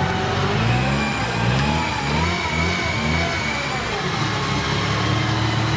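Off-road vehicle engine running, its revs rising in a series of short surges about twice a second through the middle, then settling back to a steady run.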